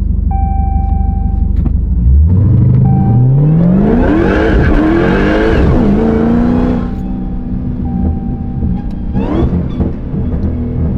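A supercharged 6.2-litre Hellcat Hemi V8, heard from inside the car's cabin. It is running low and steady, then about two seconds in it is floored and the revs climb steeply, with a high whine on top, for about four seconds. It then lifts off and settles to a steady cruise, with a brief blip of revs near the end.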